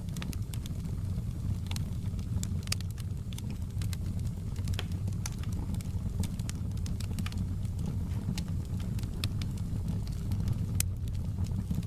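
Wood fire crackling: irregular sharp pops and snaps, several a second, over a steady low rumble of the burning flames.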